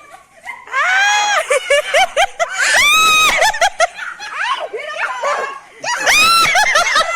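People shrieking and laughing: three long high-pitched screams, about a second in, about three seconds in and about six seconds in, with laughter and short cries between them.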